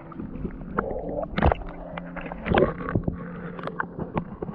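Muffled gurgling and knocking of moving water picked up by an action camera held underwater in a stream, with scattered clicks and a low steady hum.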